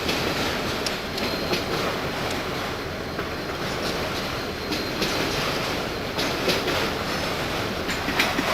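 Railroad cars rolling past close by: a steady rumble of steel wheels on rail, with irregular clicks and clacks as the wheels cross rail joints.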